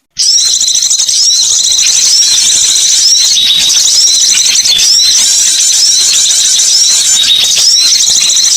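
Bird-lure recording of a flock of small songbirds: many birds chirping together in dense, high, overlapping notes that repeat constantly. A brief silent gap at the very start, where one track gives way to the next.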